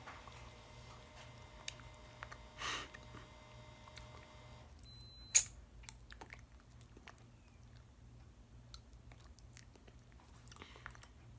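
Faint chewing and small mouth clicks from a person tasting a snack, with a short breath about two and a half seconds in and one sharp click about five seconds in.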